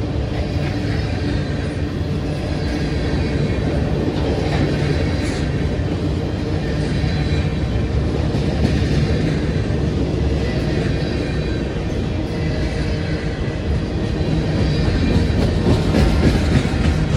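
Covered hopper cars of a passing freight train: a steady rumble of steel wheels rolling on the rails, with clickety-clack over the rail joints, growing a little louder near the end.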